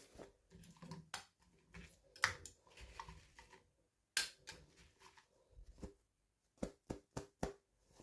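Irregular small clicks, taps and rustles from hands opening packaging and handling small plastic toy pieces.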